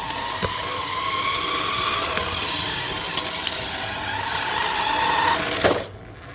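Toy RC cars' electric motors and gears whining as they drive, the pitch rising and falling with speed, with light clicks as they bump over the floor. The whine cuts off near the end, followed by a sharp knock.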